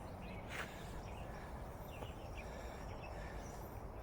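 Faint short bird chirps over a steady low background noise, with one brief swish about half a second in.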